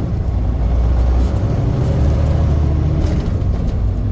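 Truck engine and road noise while driving: a steady low drone.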